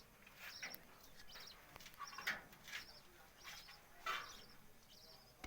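Budgerigars chirping: a string of short, sharp calls, the loudest about two and four seconds in, over faint rapid high twittering.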